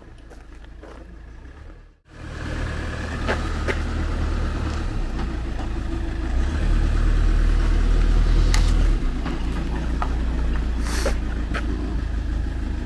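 A vehicle engine running with a steady low rumble, swelling louder for a couple of seconds midway, with a few sharp clicks and knocks over it.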